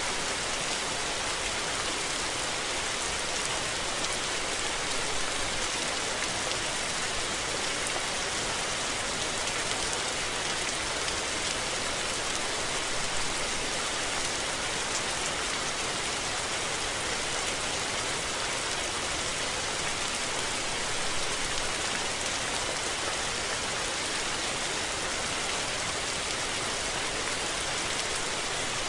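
Steady rain falling, a continuous even hiss of many drops on a surface.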